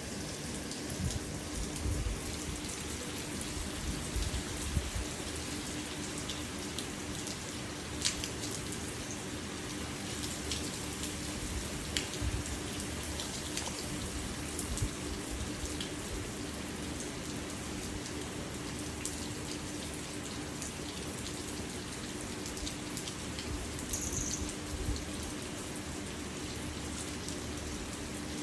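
Steady rain falling, with single drops landing close by as sharp ticks scattered through it. A faint steady low hum runs underneath.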